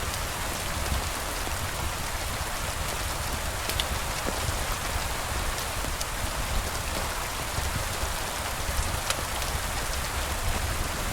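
Steady rain falling, with a few scattered sharp ticks of drops or crackles.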